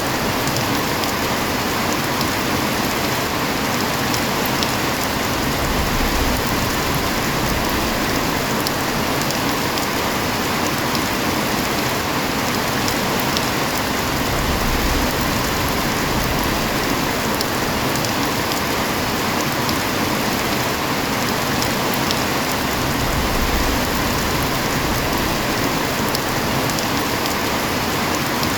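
Heavy rain falling steadily: a dense, even hiss of rain with scattered sharp ticks of individual drops.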